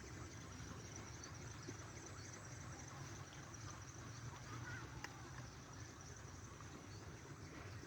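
Faint, steady background noise with a single sharp click about five seconds in.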